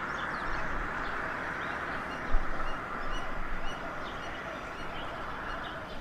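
Birds calling in many short, high chirps over a steady background hiss, with a brief low thump about two seconds in.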